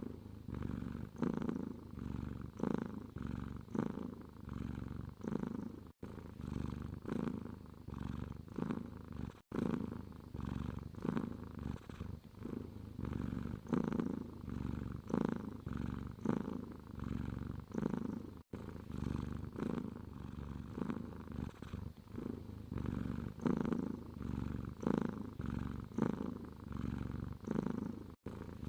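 Domestic cat purring close up, a steady rhythmic purr swelling with each breath in and out. The purr drops out for an instant four times, like splice points in a loop.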